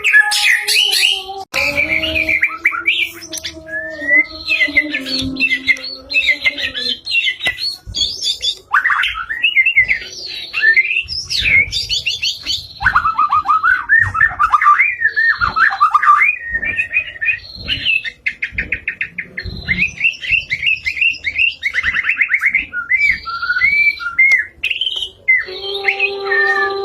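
White-rumped shama singing a long, continuous, varied song: whistled phrases, rapid runs of notes and trills, and harsh notes following each other without a break.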